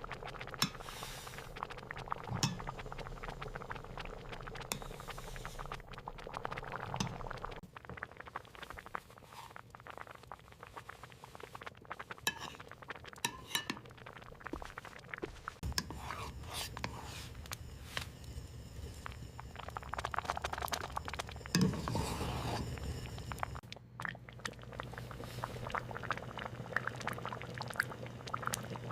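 Kitchen handling sounds: glass and dishes clinking and knocking in many small taps, with a steadier rushing stretch in the middle.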